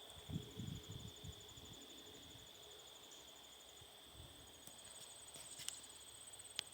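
Faint, steady, high-pitched insect chirring with a fast pulse, with a few soft low thumps in the first second or so.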